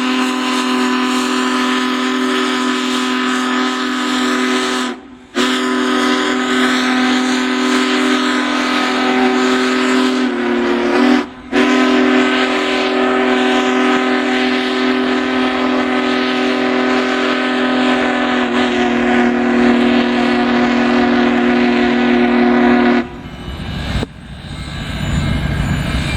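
Big Boy 4014 steam locomotive's chime whistle blowing long, steady blasts. It breaks off briefly about five seconds in and again about eleven seconds in, then stops about 23 seconds in, leaving a rushing rumble.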